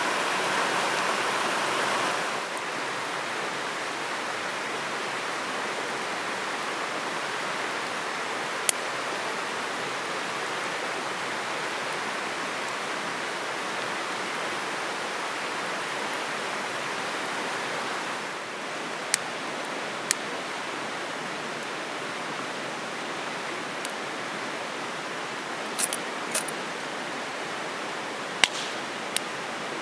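Steady rushing of a stream, with a few brief sharp clicks scattered through the second half.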